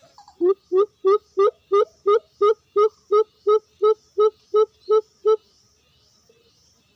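Zebra dove (perkutut) cooing: a series of about fifteen short, evenly spaced coos, roughly three a second, that stops a little after five seconds.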